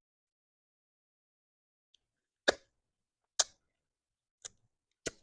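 Eating sounds from a mouthful of grilled chicken feet: four short, sharp smacks and crunches, the first two the loudest, in otherwise near silence.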